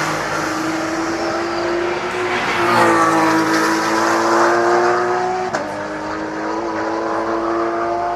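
Racing cars' engines at speed, one car following another, each engine note rising slowly under acceleration. A short sharp click about five and a half seconds in breaks the note once, like a gear change.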